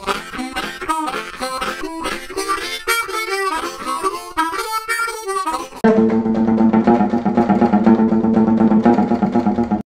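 Harmonica music: a quick run of notes, then about six seconds in a louder held chord that breaks off just before the end.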